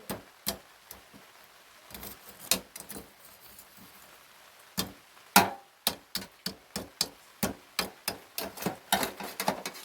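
Campfire crackling and popping: sharp, irregular clicks, sparse at first and coming several a second in the second half, with one loud pop about halfway through.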